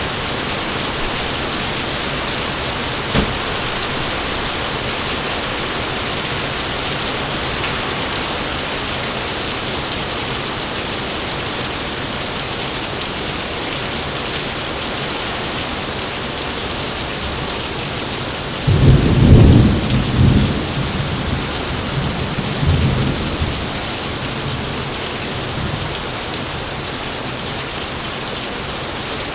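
Heavy rain falling steadily, with a sudden loud clap of thunder about two-thirds of the way through that rolls on in weaker rumbles for several seconds.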